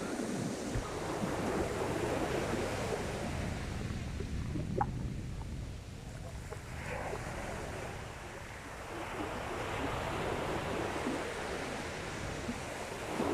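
Sea waves breaking and washing up the beach, swelling twice and easing in between, with some wind.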